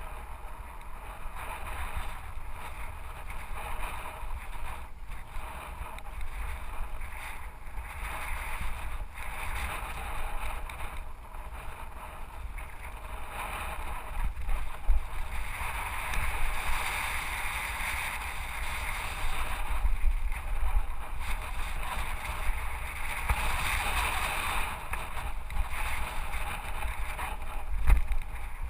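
Specialized FSR Pro full-suspension mountain bike rattling and knocking as it rides down over rocks, under a steady rush of wind on a helmet-mounted camera's microphone. It gets louder and rougher from about halfway through.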